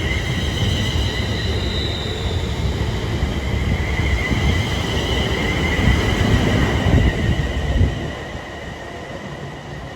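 A train passing at speed, its wheels rumbling on the rails, with a steady high whine above. The rumble drops off sharply about eight seconds in as the train clears.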